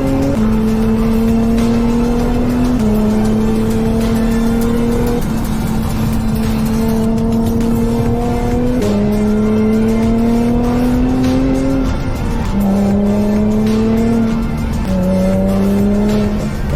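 Vortech-supercharged Infiniti G35's V6 engine and exhaust under way, its note holding steady or climbing slowly as it pulls and then dropping in pitch at each of about six gear changes.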